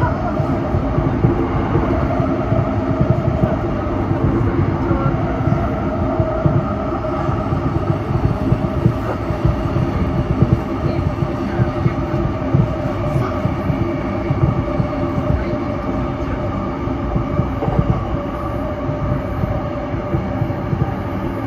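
Electric commuter train running at steady speed, heard from inside a passenger car: a continuous low rumble of wheels on rail with a steady whine held over it.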